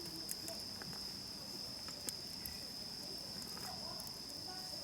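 Crickets chirring in one steady, unbroken high trill, with a few faint clicks.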